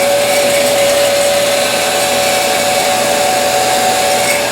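Electric heat gun running steadily, blowing hot air: an even rushing hiss with a steady motor whine.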